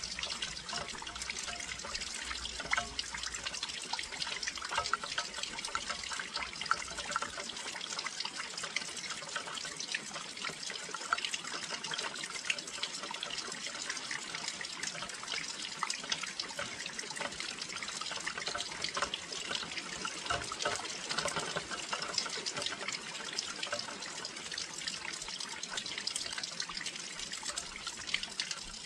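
Steady rain falling close to a windowsill: an even hiss of rain with many small drops striking one after another.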